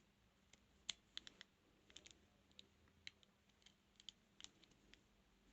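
Faint, irregular small metallic clicks of a rake pick working inside a transparent practice padlock, a dozen or so scattered ticks with quiet between them.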